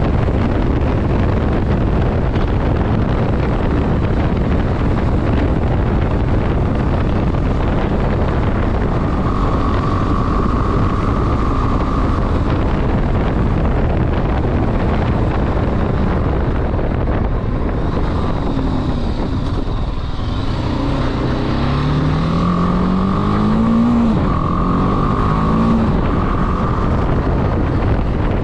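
Motorcycle riding at speed, with heavy wind noise on the microphone. About two-thirds in, the engine's pitch rises as it accelerates, drops once at a gear change, then rises again.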